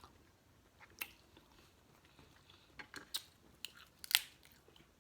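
A person eating seafood boil: a scattering of short, sharp crunches and clicks of biting and chewing, the loudest about four seconds in.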